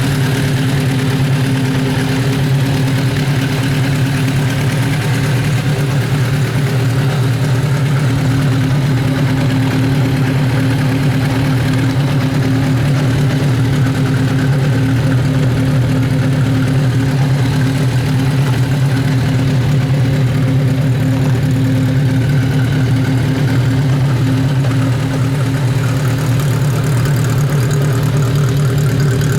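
Kawasaki Z500 motorcycle's air-cooled inline-four engine idling steadily, with no revving.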